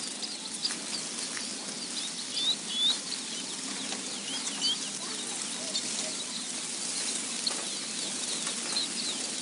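A dense chorus of many small birds chirping: overlapping short high chirps and quick rising-and-falling notes, over a steady hiss.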